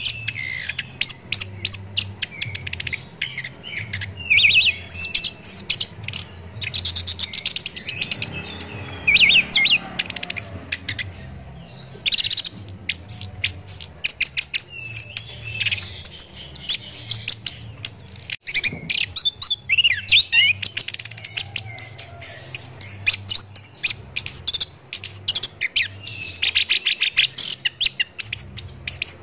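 Orange-headed thrush (anis kembang) singing a long, varied song of rapid trills, chirps and whistled phrases, with a short break about eleven seconds in.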